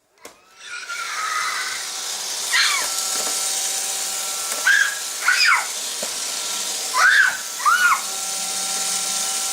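Roomba robot vacuum running with a steady whir, while a pet gives five short cries that rise and fall in pitch, starting a couple of seconds in.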